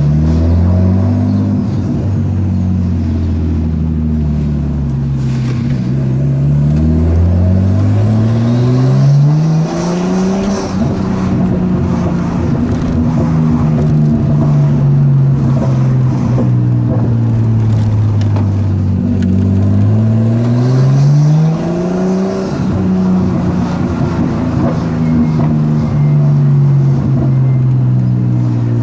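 Nissan Skyline R33's straight-six through a straight-pipe exhaust with the rear muffler deleted. The engine note falls, climbs steadily under acceleration about a third of the way in, eases back down, climbs again about two-thirds of the way in, then falls off.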